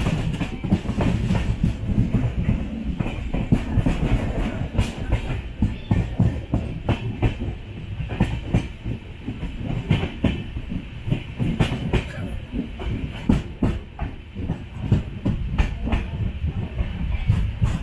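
Passenger express train's coach running along the track: a steady low rumble with wheels clattering irregularly over rail joints.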